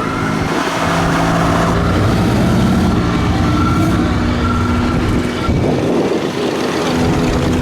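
Fire truck air horns blowing a steady, loud chord for about five and a half seconds, with a siren held on one high note, over the noise of passing engines.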